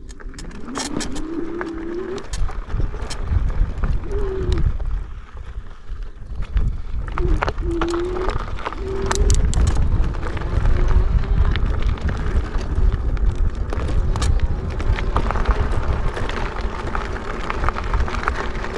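E-bike riding over a rough, broken road: a heavy wind rumble on the microphone with tyre noise and frequent sharp rattles and clicks from the bike over the bumps. A few short wavering whines come and go in the first half.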